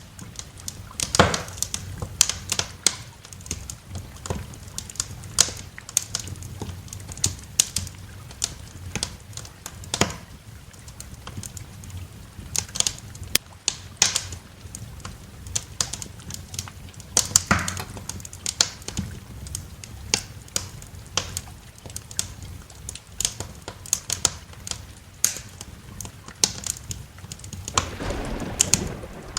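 Wood fire crackling in a fireplace: irregular sharp pops and snaps over a steady low rumble, growing louder and fuller near the end.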